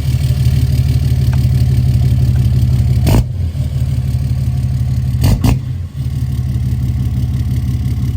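Pickup truck engine running steadily with a low rumble, interrupted by two sharp knocks about three and five seconds in.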